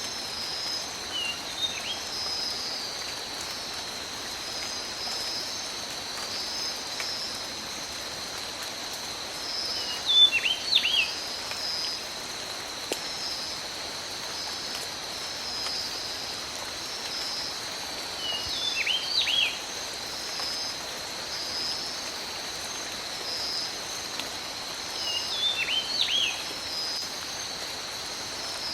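Steady rain falling in a tropical forest, with a continuous high-pitched hum over it. A bird calls four times at roughly eight-second intervals, loudest about ten seconds in.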